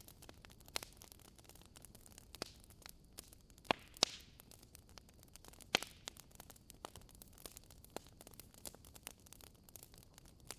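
Wood fire in a fireplace crackling: an irregular run of small snaps and pops over a faint hiss, with a few louder pops about four and six seconds in, one followed by a brief hiss.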